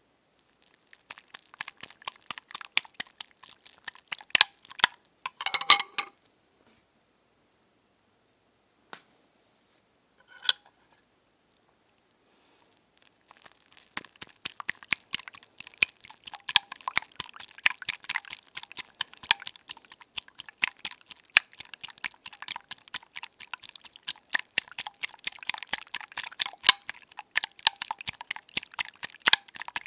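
Close-miked ASMR crackling and scratching, a dense run of small irregular clicks. It stops about six seconds in, leaves two lone ticks, and resumes after about thirteen seconds.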